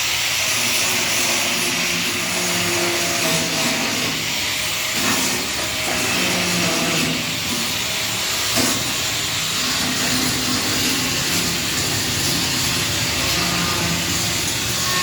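A machine running with a steady, loud hiss and hum, with brief knocks about five seconds and eight and a half seconds in.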